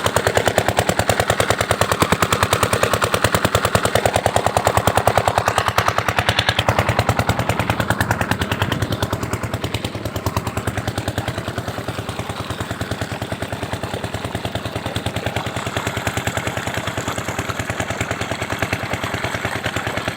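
Diesel water-pump engine running with a rapid, even firing beat, easing slightly in loudness about halfway through and then holding steady.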